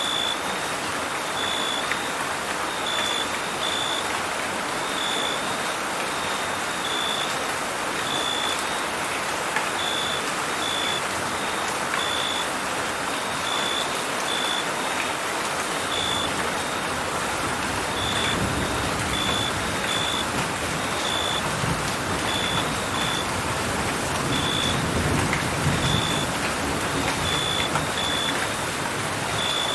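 Steady rain with crickets chirping: short, high-pitched chirps about once or twice a second at uneven intervals. A little past halfway, a low rumble builds up under the rain.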